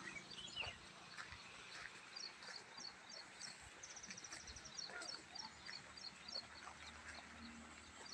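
Faint birdsong: repeated short, high chirps, with a quick trill about four seconds in.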